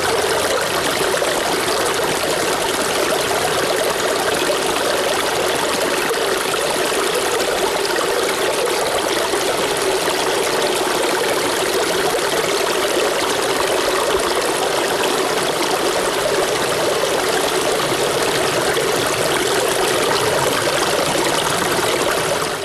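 Steady running water, flowing evenly without breaks.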